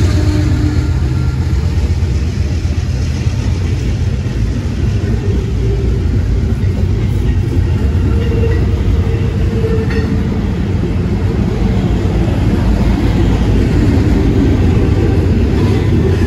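Diesel-hauled freight train passing close by: a steady, loud low rumble.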